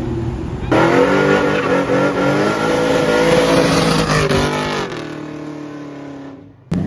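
Car engine accelerating hard, coming in loud about a second in and then fading away as it pulls off. It cuts off suddenly near the end.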